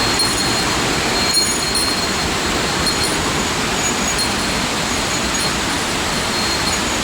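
Steady roar of rushing water from a mountain stream or waterfall, without a break.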